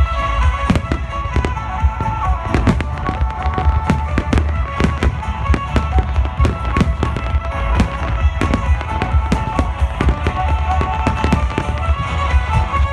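Fireworks bursting in rapid succession, many sharp bangs a second, over music with sustained melodic notes.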